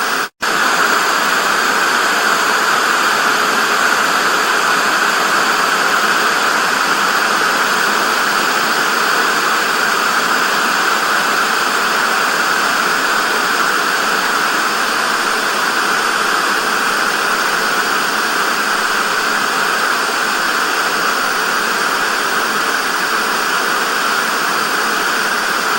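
Television static: a steady, loud hiss with no tones, briefly cutting out for a split second just after the start.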